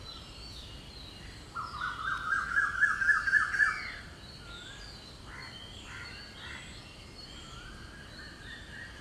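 Songbirds calling, loudest a quick run of about a dozen repeated notes, climbing slightly, about two seconds in, then a few shorter chirps. Under them is the faint steady sizzle of chicken pieces deep-frying in hot oil.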